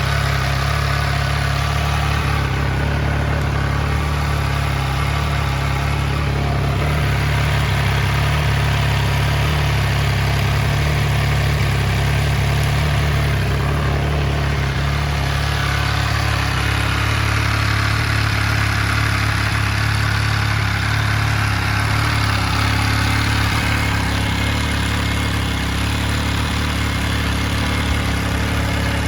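MV Agusta Rivale 800's 798 cc three-cylinder engine idling steadily through an aftermarket Arrow carbon muffler.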